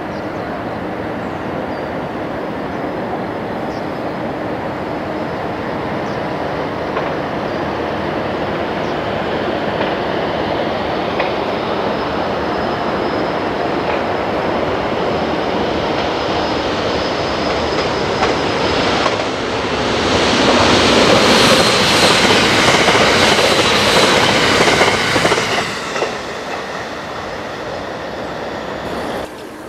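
A JR West 681/683-series limited express electric train approaching and passing. Its rolling noise builds steadily for about twenty seconds and is loudest as it goes by, with rapid wheel clicks over the rail joints, then falls away sharply.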